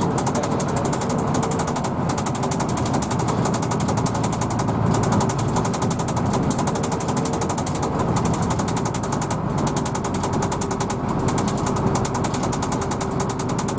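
Hino AK bus's diesel engine running steadily under way, with a fast, even clatter over its drone.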